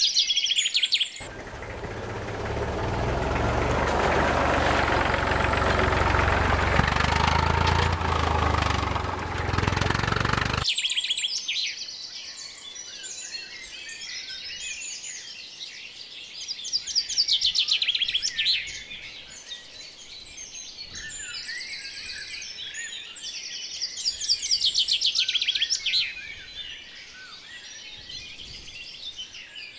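Birds chirping and twittering, with a loud, dense rushing noise lasting about nine seconds from just after the start that drowns them out, then the chirping alone again.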